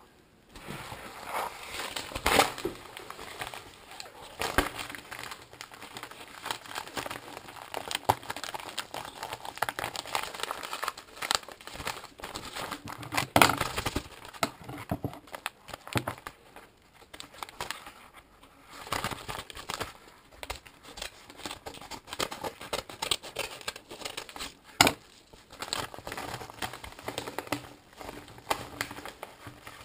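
Packaging being handled and unwrapped: irregular crinkling and rustling with some tearing, broken by a few sharper cracks.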